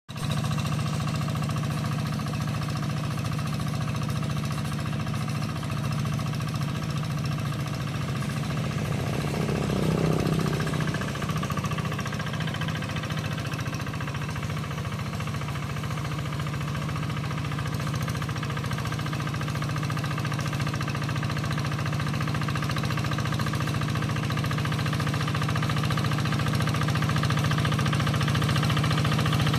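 Tractor engine running steadily while plowing a flooded rice paddy, with a brief swell in pitch and loudness about ten seconds in.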